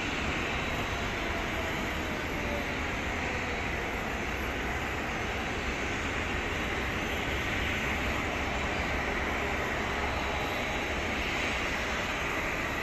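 Twin rear-mounted turbofans of a Hawker 800XP business jet running at taxi power: a steady jet rush with a hissing edge that swells slightly near the start and the end.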